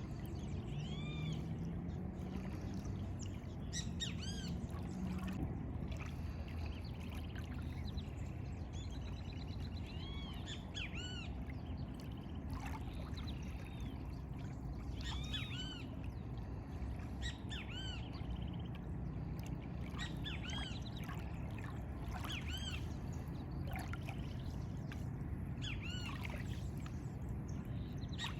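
Birds calling repeatedly in short, arching chirps, many of them clustered and overlapping, over a steady low background rush of lagoon water and air.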